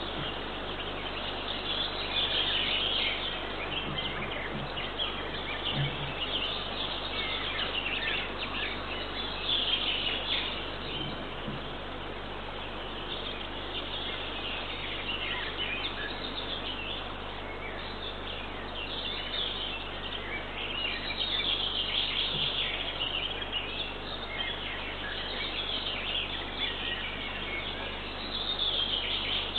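Small songbirds singing and chirping around the nest, many short phrases throughout, over a steady hiss.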